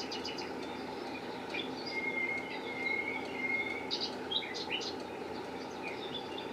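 Small birds chirping and twittering, with short high chirps scattered through and a thin held whistled note about two seconds in, over a steady background hiss.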